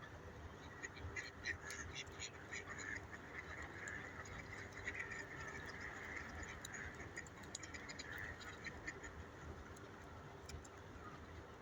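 Ducks quacking softly, mixed with many small sharp clicks and taps of webbed feet on ice.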